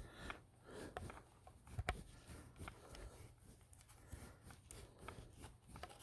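Faint handling noises of hands working on a cordless chainsaw's bar and chain tensioner: small scattered clicks and rustles, with one sharper click about two seconds in.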